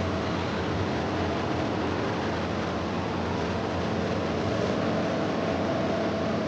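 Steady mechanical hum with an even hiss, unchanging throughout: a machine such as a fan or compressor running in the background.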